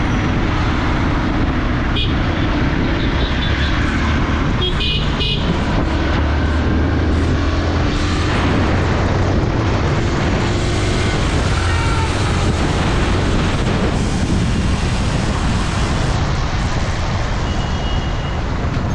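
Motorcycle riding through city traffic: its engine runs steadily under a constant wash of road and wind noise, with a couple of brief high toots about two and five seconds in.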